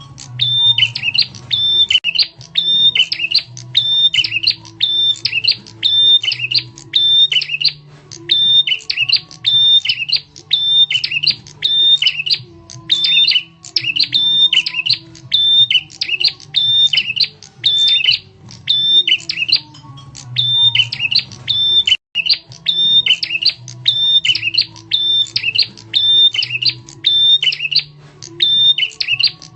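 Prenjak tamu lure call: loud, sharp chirping notes repeated about twice a second with hardly a break, over a low steady hum.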